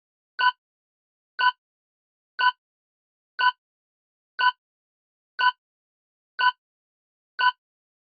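Countdown clock-tick sound effect: eight short, identical ticks, one each second, with silence between them.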